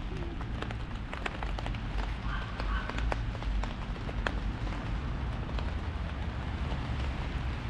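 Heavy rain drumming on an umbrella: a steady hiss of rain with many separate sharp drop ticks on the canopy, over a low rumble.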